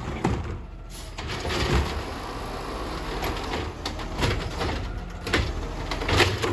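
Garbage truck engine running steadily, with a series of sharp metallic clanks and bangs from the collection work, about six over a few seconds.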